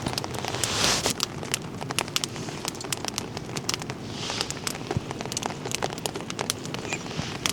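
Wood fire crackling with many sharp, irregular pops, over a steady hiss of rain.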